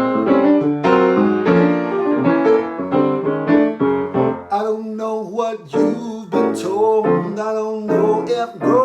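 Piano playing a song's accompaniment, full chords struck in quick succession at first, then sparser held notes from about halfway.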